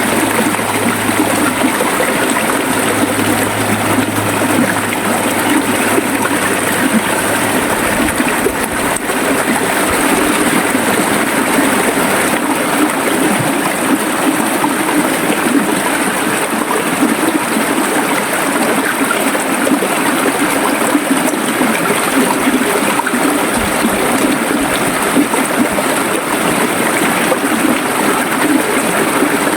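River water running steadily, a continuous rushing flow with no breaks.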